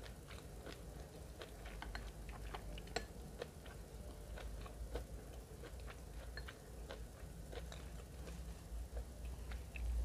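Mouth sounds of chewing food: soft, irregular little clicks, over a low hum.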